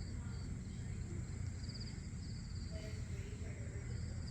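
Crickets chirping in short, rapidly pulsed trills that repeat every second or so, over a steady high insect drone. Beneath them runs a steady low rumble.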